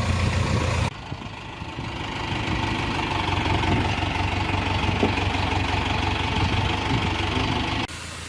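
Tractor engine running steadily; the sound shifts abruptly about a second in and again near the end.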